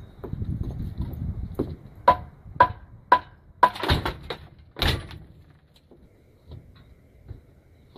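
Low rumbling handling noise, then a series of about six sharp knocks with a short ring, roughly every half second, ending about five seconds in.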